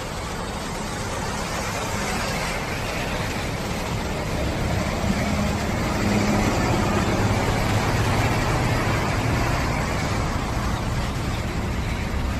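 Road traffic: a heavy vehicle's engine running close by over a steady wash of road noise. The engine grows louder through the middle and eases again near the end.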